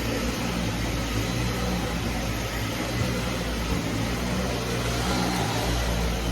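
Vacuum cleaner running steadily: a low motor hum under a broad, even rushing of air.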